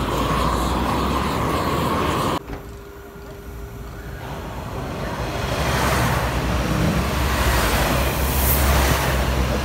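An electric S-Bahn train runs with a steady whine until an abrupt cut about two seconds in. After the cut, a pair of coupled Siemens Desiro Classic diesel multiple units approaches and passes close by, and their diesel engine rumble and wheel noise on the rails swell to a loud, steady level, with a brief high squeal near the end.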